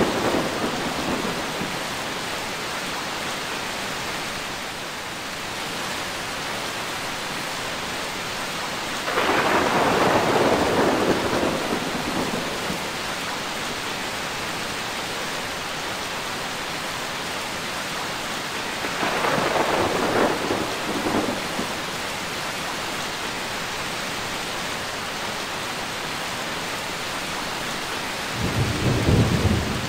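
Steady rain with thunder rolling in three times: about nine seconds in, again around nineteen seconds, and a deeper low rumble near the end.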